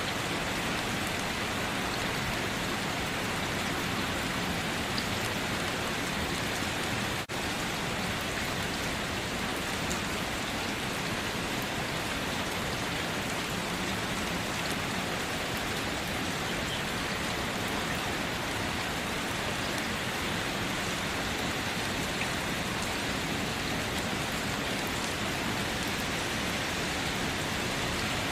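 Steady rain: a continuous, even hiss of rainfall with scattered small drop ticks, broken once by a momentary dropout about a quarter of the way in.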